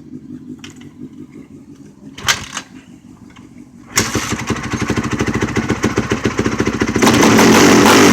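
A motorcycle engine runs faintly at first, then a motorcycle engine fires up loudly close by about halfway through, with rapid even firing pulses. It gets louder again about a second before the end.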